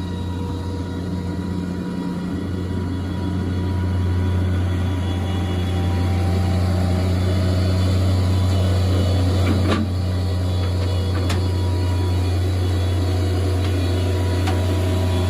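Bobcat skid-steer loader engine running steadily, with a few sharp clanks in the second half.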